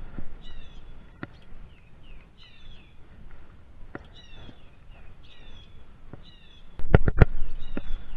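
Small birds calling: short, high, falling chirps repeated every half second or so. About seven seconds in come two or three sharp knocks, followed by a steady low rumble.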